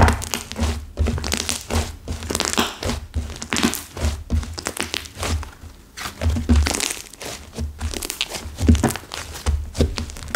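Stiffened clay slime being kneaded and pressed by hand, giving rapid irregular crackling and crunching with dull thuds as it is pushed down. The clay has set the slime hard and crumbly.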